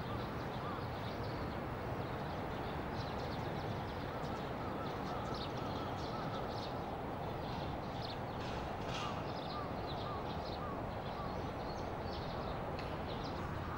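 Steady outdoor background noise, with birds giving short, faint calls throughout.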